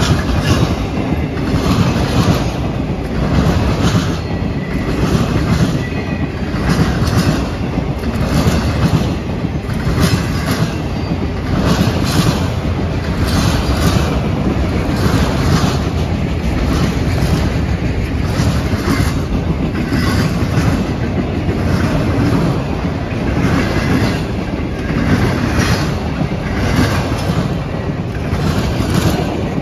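Freight train of autorack cars rolling past at steady speed: a continuous loud rumble of steel wheels on rail, with a regular clickety-clack as the wheelsets cross rail joints.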